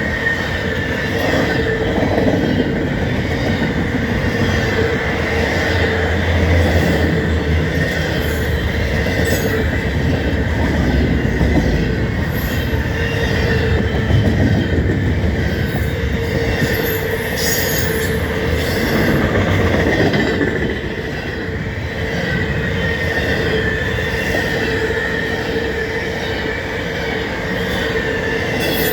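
Double-stack intermodal container train rolling past, its wheels on the rails making a continuous rumble under a steady high-pitched squeal.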